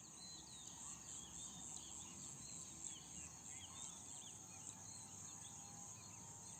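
Faint outdoor ambience: many short, quick bird chirps over a steady high-pitched insect drone. No tool strikes or bearing work are heard.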